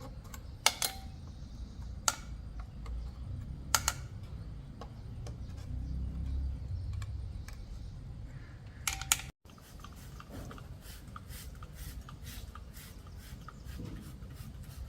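Hand tools and small metal parts knocking and clinking during motorcycle repair work: four sharp clinks a couple of seconds apart, each ringing briefly, then a run of light rapid ticks.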